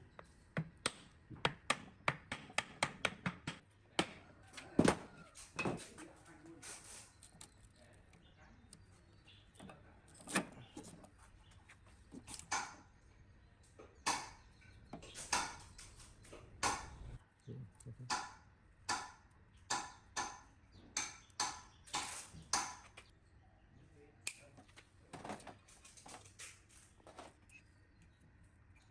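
Irregular sharp knocks and clinks of hand tools against metal parts of an old mixer being worked on, with a quick run of taps in the first few seconds and then single strikes about one or two a second.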